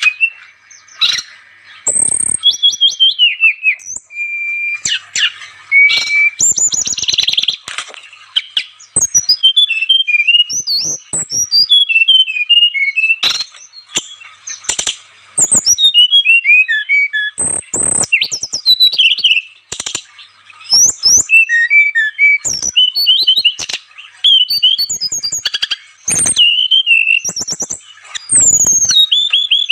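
Brown-chested jungle flycatcher (sikatan rimba dada coklat, SRDC) singing a fast, varied run of high whistles, slurred notes and trills in short phrases, with sharp clicks between the phrases.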